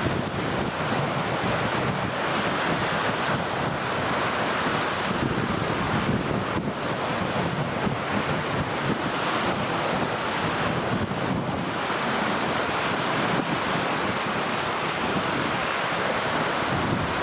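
Strong typhoon wind buffeting the microphone over waves breaking and washing on a lakeshore, a continuous rough roar that swells and eases in gusts.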